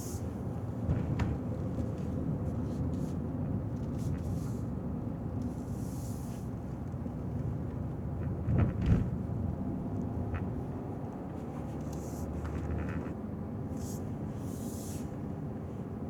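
A car driving through city streets: a steady low rumble of engine and tyres, with short hisses, a small jolt about a second in, and a louder thump about nine seconds in.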